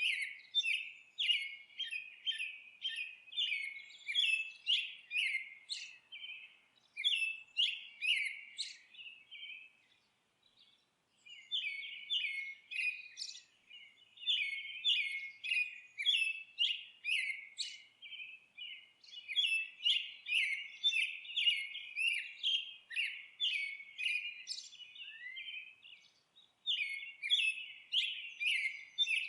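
Songbirds twittering in rapid runs of short, high chirps, with two brief pauses, about ten and twenty-six seconds in.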